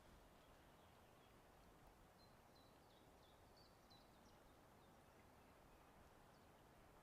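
Near silence: faint outdoor background with a small bird giving a short series of high chirps about two to four seconds in.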